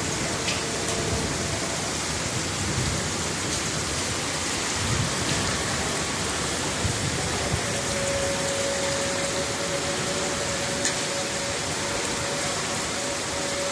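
Torrential rain pouring steadily. A faint steady tone comes in about halfway through.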